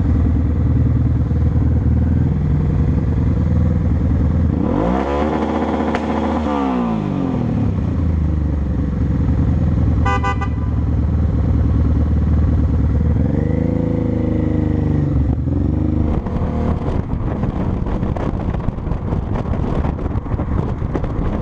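Motorcycle engine running under way, revving up and falling back about five seconds in and again around thirteen seconds, with a short car horn toot around ten seconds. The sound gets rougher and noisier in the last few seconds.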